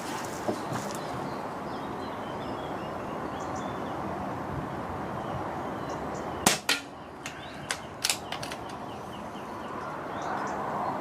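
A single shot from a .177 PCP air rifle, a sharp crack about six and a half seconds in, followed by a few quick lighter clicks. Steady wind noise runs underneath.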